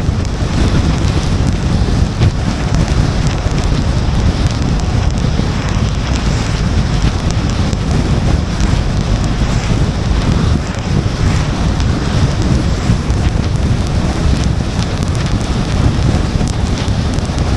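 Car driving on wet roads in the rain: a steady low rumble of tyre and road noise, with wind and rain against the car.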